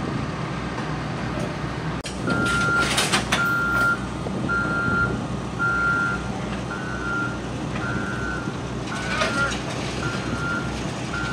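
A truck's reverse alarm beeping about once a second, starting about two seconds in, over the steady rumble of a running diesel engine: the truck is backing up.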